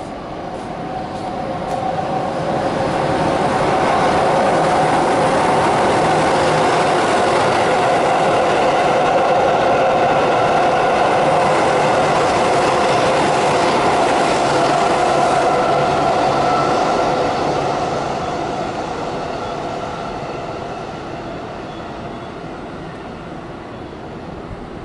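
Keihan 8000 series electric limited express train running through the station at speed without stopping: the sound of wheels on rail and a steady motor hum grows over the first few seconds, holds loud for about a dozen seconds as the cars pass, then fades away as the train leaves.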